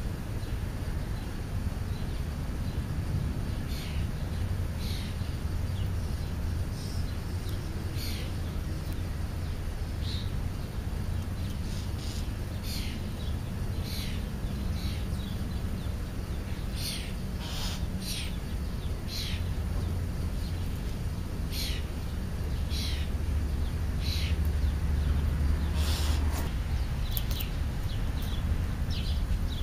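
Small birds chirping: short, high, falling chirps every second or so, over a steady low outdoor rumble.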